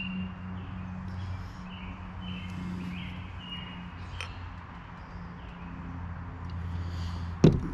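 Faint bird chirps over a steady low hum, with one sharp knock near the end.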